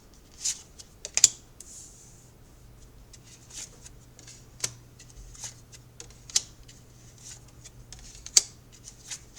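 Light, sharp clicks and taps of tarot cards being handled on a table, a dozen or so at uneven intervals, the loudest about a second in and near the end.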